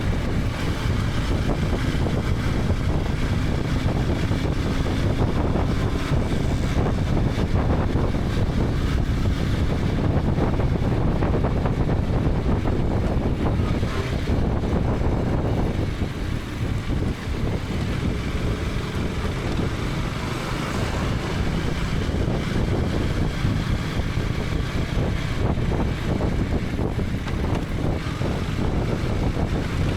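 KTM 250 Adventure's single-cylinder engine running under way, mixed with wind rush over a helmet-mounted microphone. The level dips briefly about sixteen seconds in, then picks up again.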